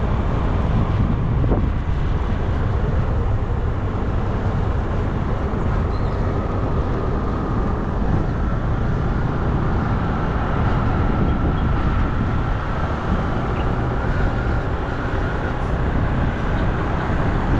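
Steady wind rush on the microphone and road noise from a bike in motion.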